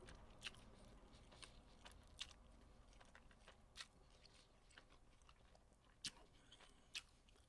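A person chewing food with the mouth close to the microphone: faint chewing with a few short, soft crunches and mouth clicks scattered throughout.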